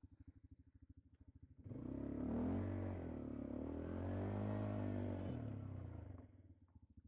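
ATV engine idling with an even, pulsing beat, then revved up about two seconds in for roughly four seconds, its pitch rising and falling twice, before dropping back to idle.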